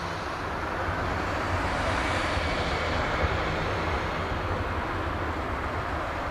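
Jet engines of an Airbus A320 airliner passing by, a steady rumble and rush that swells to its loudest about two seconds in and then eases off.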